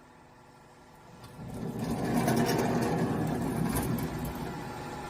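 Factory machinery on a water-heater inner-tank production line, running with a steady mechanical hum. It swells in from about a second and a half in and is loudest a little after two seconds, then settles to a lower steady level.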